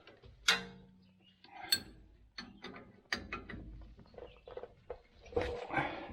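Metal hand tools clinking and knocking, with a ratchet wrench clicking in short runs.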